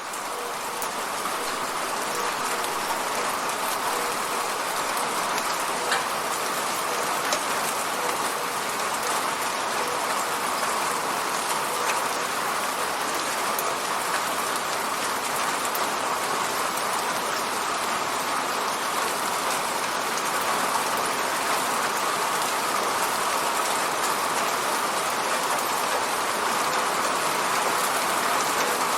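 Steady rain hitting an apartment window, an even hiss of drops with the odd single louder tick, easing up to full level over the first couple of seconds.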